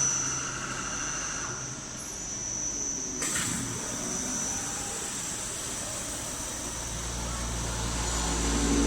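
CNC metal spinning machine running, with a steady high whine over machine noise and a single sharp knock about three seconds in. A low hum builds up toward the end.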